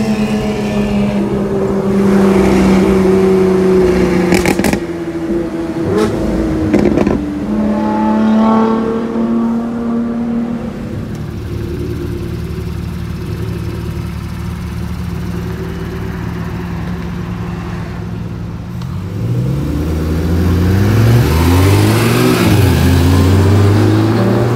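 Sports car engines idling and running steadily while stopped, with a few sharp cracks about five to seven seconds in. Near the end an engine accelerates hard through the gears, its pitch rising and dropping with each shift.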